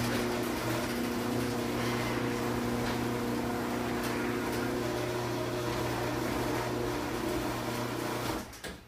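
Stanley chain-drive garage door opener running as it closes the door: a steady, really noisy motor hum with chain noise over it, which cuts off about eight seconds in.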